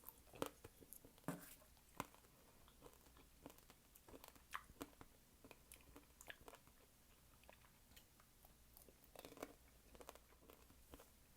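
Faint close-miked chewing of fresh fruit: small wet bites and mouth clicks scattered irregularly, with a few slightly louder crunches.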